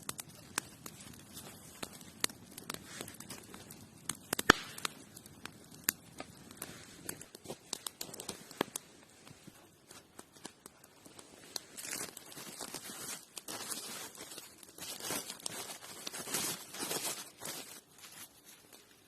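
Close-up rustling and crinkling, with scattered sharp clicks and snaps through the first half, the loudest about four and a half seconds in, then denser bursts of rustling in the second half.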